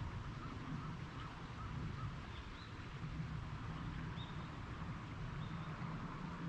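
Several short bird calls over a steady low rumble, outdoors by a river. The calls come as a quick run of chirps in the first two seconds, then a few higher single calls later.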